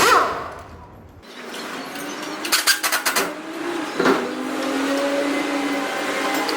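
A sharp metal clink right at the start, then from about two seconds a small motor whirring steadily, picking up again about four seconds in.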